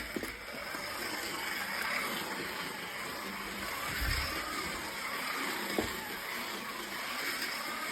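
Steady road and engine noise heard inside a moving car, with a low thump about halfway through and a couple of faint knocks.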